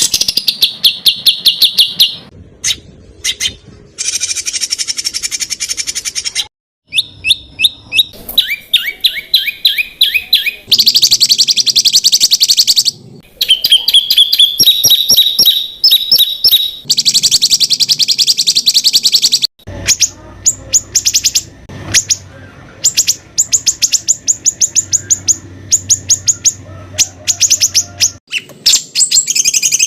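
Songbirds giving rapid-fire repeated calls, the staccato 'tembakan' bursts used in bird-training recordings, many short notes a second. The notes come in segments spliced together with abrupt cuts. Some runs hold a steady pitch and some are quick downward-gliding notes.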